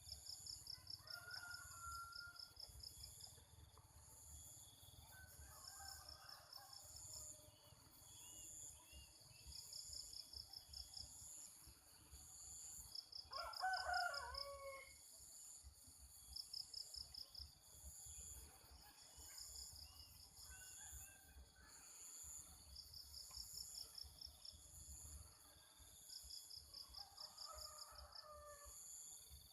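Quiet rural ambience: insects chirp in short rapid trains over and over, and a rooster crows once near the middle. Faint bird calls come and go in between.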